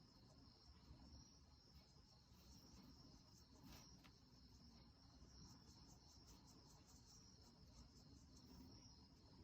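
Near silence: faint room tone with a steady high-pitched cricket trill.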